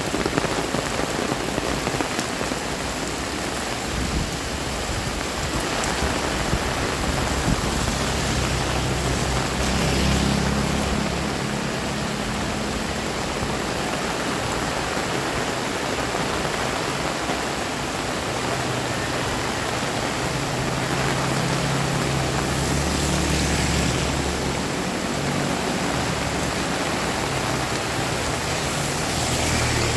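Heavy rain pouring steadily, a dense even hiss of drops striking surfaces. A low steady hum rises beneath it twice, around eight to twelve seconds in and again from about nineteen to twenty-five seconds.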